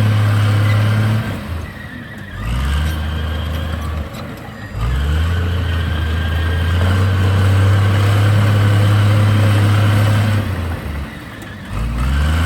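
Heavy diesel engine of earthmoving machinery running hard, throttling down three times and revving back up a second or so later each time.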